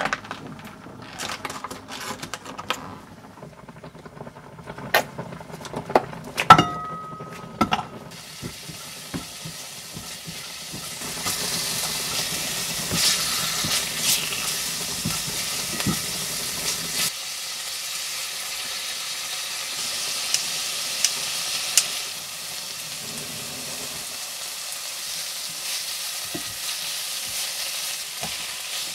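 Ham and then kimchi sizzling in a frying pan while being stirred with a silicone spatula. The sizzle starts about eight seconds in and grows louder a few seconds later. Before it start there are scattered clicks and knocks and a short beep.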